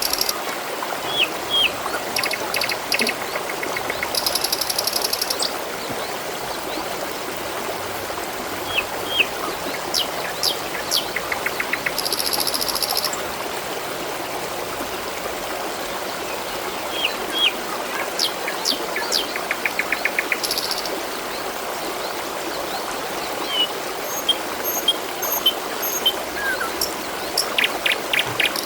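Water trickling steadily, with songbirds chirping over it every few seconds: short high notes, quick rattling trills and buzzy bursts.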